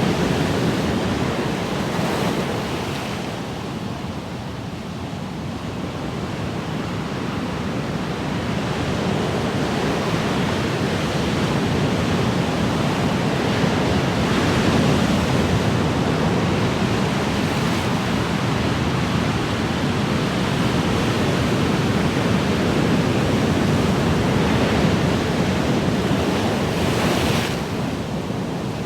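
Ocean waves washing in: a continuous rushing surf that eases off a few seconds in, then builds again in slow swells.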